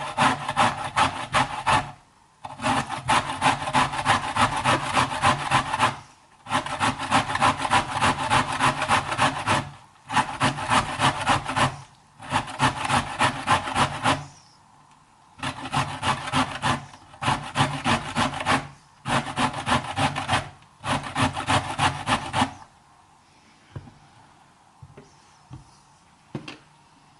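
Zucchini being shredded by hand against a blade, rasping strokes at about three a second. The strokes come in runs of a few seconds with short pauses, and stop about 23 seconds in, leaving quiet with a few light clicks.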